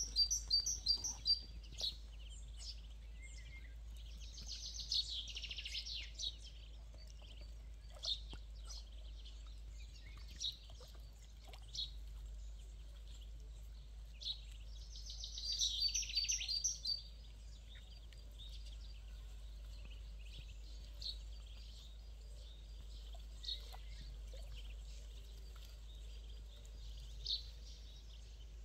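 Birds chirping and singing, with two brighter bursts of quickly repeated high notes, about a second in and again around fifteen seconds in. A faint steady low hum runs underneath.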